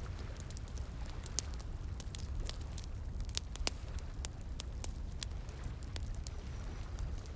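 Wood fire crackling, with frequent irregular sharp pops and snaps, over a steady low rush of flowing water.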